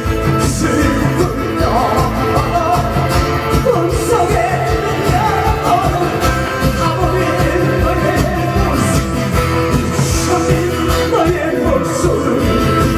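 A man singing a Korean pop song live through a PA system, over amplified accompaniment with guitar.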